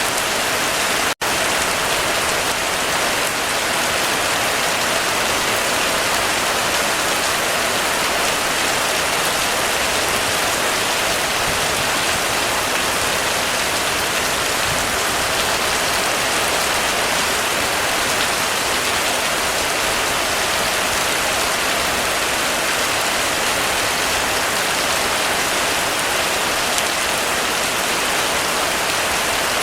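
Heavy rain falling steadily on a roof, a dense even hiss of drops. It cuts out for an instant about a second in.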